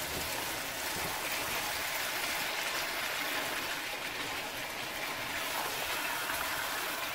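Chicken pieces in curry sauce sizzling in a nonstick frying pan as they are stirred with a silicone spatula: a steady hiss.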